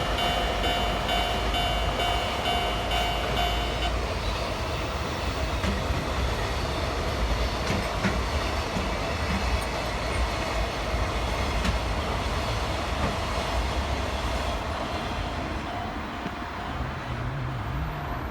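Train passing over a level crossing: a steady rumble with wheels clacking over the rail joints. A level-crossing alarm's two-tone ringing runs alongside and stops about four seconds in.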